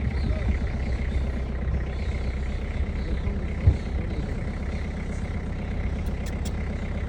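A steady low engine rumble, like a vehicle idling, with a single thump about three and a half seconds in.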